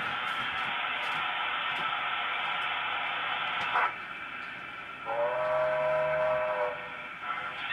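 Speaker of a sound-fitted OO gauge model steam locomotive: a steady steam hiss that stops about four seconds in, then one whistle blast lasting about a second and a half.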